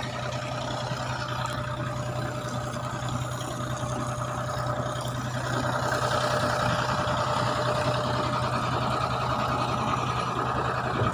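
A fishing boat's engine running steadily at sea, a constant low hum, getting a little louder about halfway through.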